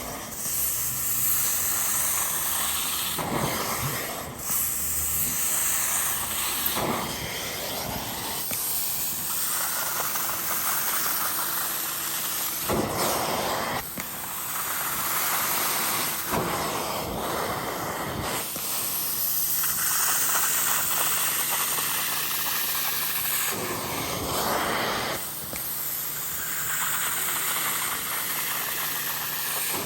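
Upholstery extraction machine: the vacuum motor's steady whine and a rushing hiss of suction and spray that swell every few seconds as the hand tool passes over the fabric.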